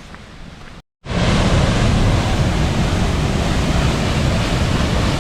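Faint outdoor ambience that cuts off about a second in, replaced by the loud, steady rush of the Simme river's waterfall cascade close by, heavy in the low end.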